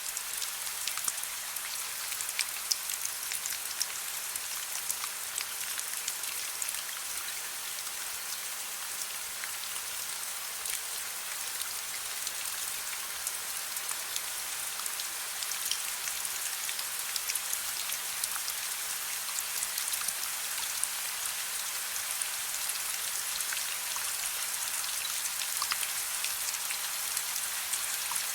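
Steady, gentle rain, with many close individual drops ticking sharply over an even hiss.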